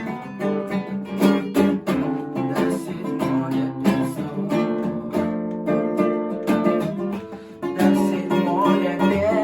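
Acoustic guitar strumming chords steadily in an instrumental break of a song.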